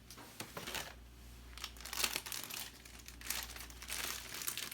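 Irregular crinkling and rustling of handled packaging or plastic, in uneven bursts with the loudest about two seconds in, over a faint steady low hum.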